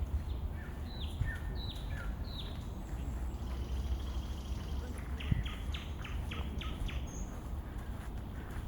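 Bird calling: three whistled notes that each fall in pitch, then about halfway through a quick run of about six sharp notes, over a steady low rumble.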